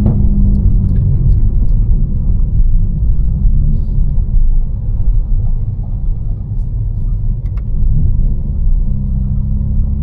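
Tuned BMW M4 Competition's twin-turbo straight-six with a catless exhaust, running under light throttle while driving: a deep, loud drone whose engine note rises gently a few times.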